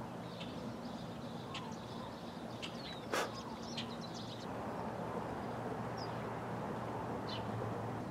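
Birds chirping and calling now and then over a steady low hum, with one sharp click about three seconds in.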